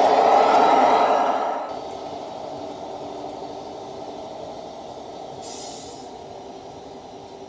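Tamiya Scania 770S RC truck running with a steady engine-like drone; it drops sharply in level about a second and a half in and carries on quieter.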